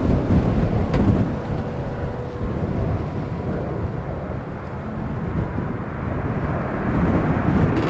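Airliner engines rumbling steadily, with a few faint steady tones, while strong gusty wind buffets the microphone.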